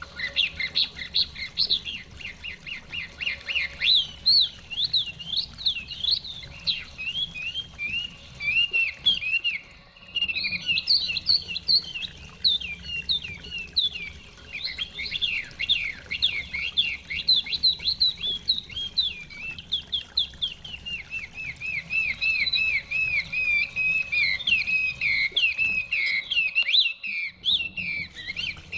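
Chinese hwamei (melodious laughingthrush) singing a long, fast, varied song of quick repeated whistled notes, with short pauses about a third of the way in and near the end.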